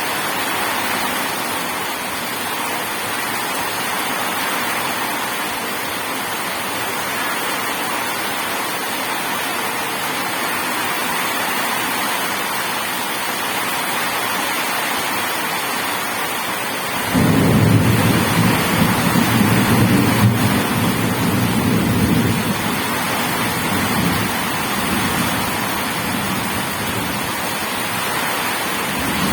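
Steady heavy rain hissing. Just past halfway a roll of thunder breaks in suddenly as a deep rumble, loudest for about five seconds before it rolls away under the rain.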